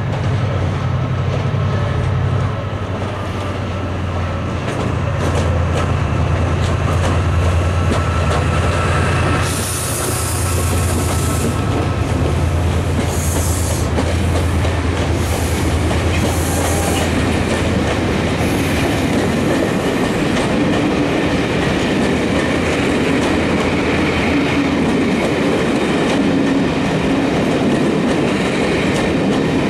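Class 68 diesel locomotives running with a steady low engine note as they draw the Northern Belle's coaches past. This gives way after about twelve seconds to the coaches rolling by, wheels clickety-clacking over the rail joints. Several short, high hissing bursts come between about ten and eighteen seconds in.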